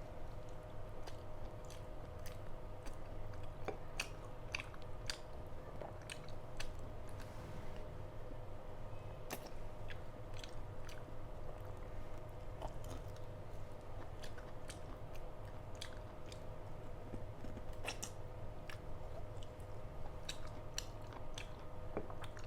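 A person chewing and biting food, a meal of mutton curry with roti and rice, with many short, irregular wet mouth clicks.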